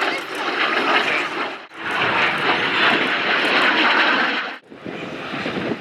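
Aircraft engine noise as a loud, even rush with no clear pitch, cut off sharply twice as the footage changes shots.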